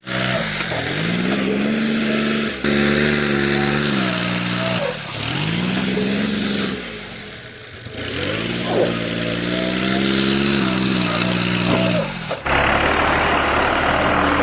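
Tractor engine revving up and down several times, its pitch rising and falling in long sweeps, with sudden breaks between the revs. Near the end it gives way to a steadier low engine rumble under a hiss.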